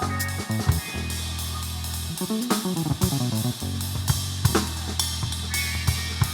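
A live band jamming: a drum kit with cymbals and hi-hat plays along with plucked strings holding low notes, broken about halfway by a quick run of changing notes.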